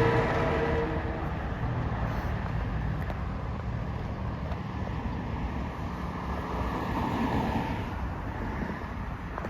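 Long Island Rail Road M3 electric train running through the station with a steady low rumble. A pitched whine fades out about a second in, and the noise swells briefly near the end.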